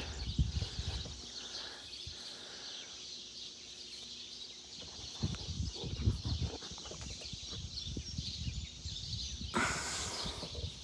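Outdoor countryside ambience: a steady high-pitched chorus of insects, with irregular low rumbles and a louder burst of noise near the end.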